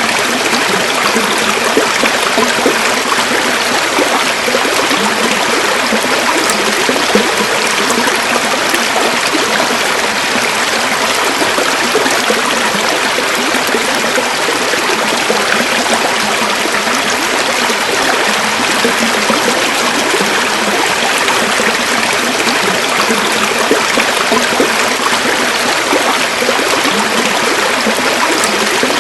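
River water flowing over stones, a steady rushing and trickling.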